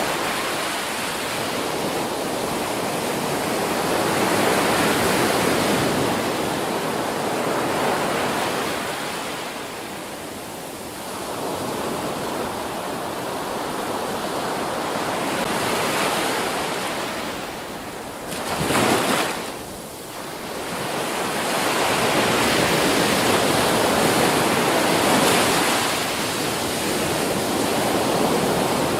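Ocean surf breaking on a beach, a steady rush that swells and ebbs every few seconds as waves come in and wash back, with one brief louder burst about two-thirds of the way through.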